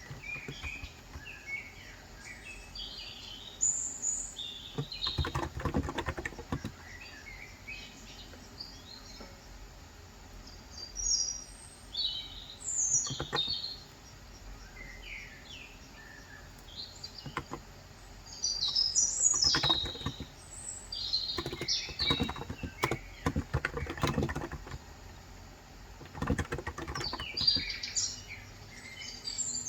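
Runs of typing on a COX Endeavor electrostatic-capacitive (Topre-style) tenkeyless keyboard with 35 g switches, rapid key clicks in bursts, the longest and loudest stretch in the second half. Small birds chirp and tweet throughout.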